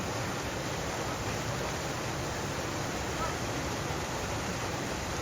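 Steady rushing of river water, an even unbroken noise with no changes.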